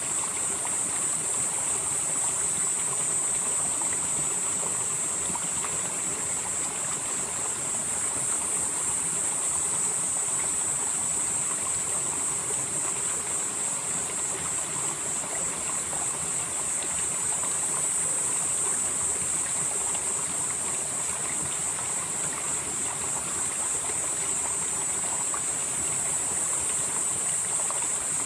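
Mountain stream flowing steadily through a valley, a continuous rush of water. A high hiss above it swells and fades every several seconds.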